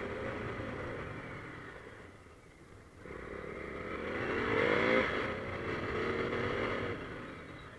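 KTM Duke 390's single-cylinder engine running on the move, easing off about two seconds in, then revving up to a peak about five seconds in and easing off again near the end.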